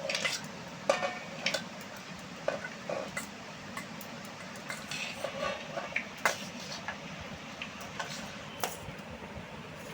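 A spoon clinking and scraping against a bowl and dishes as food is stirred and mixed: irregular light clinks, some louder than others, over a steady low hiss.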